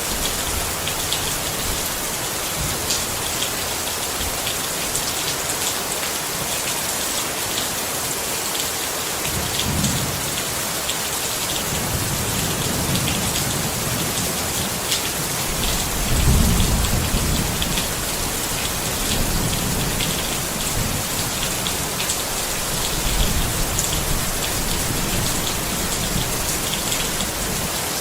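Steady rain pattering on a tent, with low rumbles of distant thunder rolling in a few times, the strongest about sixteen seconds in.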